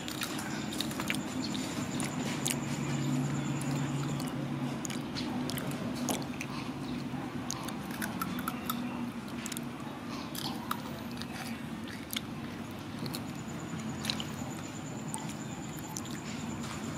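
Crunchy snacks being bitten and chewed, with scattered crisp crunches over a steady low hum.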